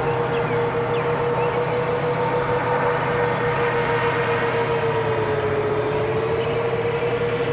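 Five-inch FPV quadcopter's four T-Motor 2207.5 brushless motors and Gemfan tri-blade propellers running at cruise, heard from on board: a steady whine over rushing air. The pitch dips slightly for a moment about five seconds in.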